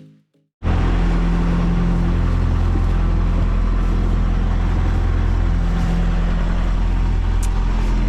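A sailboat's inboard engine running steadily, a constant low hum with wash and wind noise over it, starting abruptly about half a second in.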